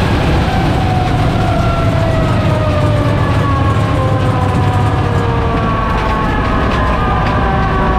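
Loud, steady vehicle engine rumble with a faint whine of several tones sliding slowly down in pitch.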